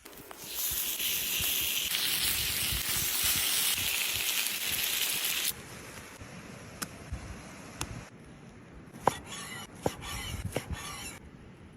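Lamb chops sizzling loudly over a Swedish torch fire, a strong even hiss that cuts off suddenly about five seconds in. Then quieter sizzling and fire crackle with a few sharp pops.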